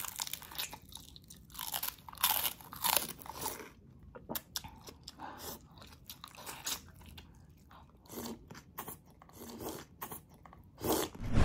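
Close-miked ASMR eating sounds: biting and chewing crisp fried boneless milkfish (daing na bangus), with irregular crunches and wet mouth sounds. Near the end comes a louder mouthful as a spoonful of mung bean soup with greens goes in.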